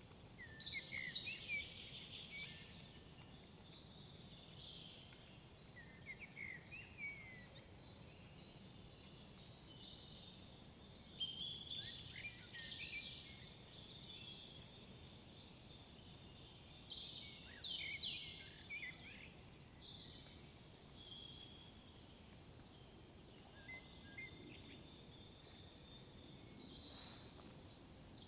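Songbirds singing in woodland: one song phrase comes back roughly every five seconds, about five times, each a couple of seconds of chirps ending in a high trill, with other calls in between. Faint steady background noise lies beneath.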